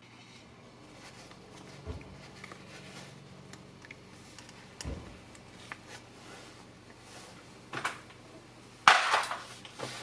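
Scattered light clicks and knocks of things being handled, with a louder clattering rush about nine seconds in, over a faint steady hum.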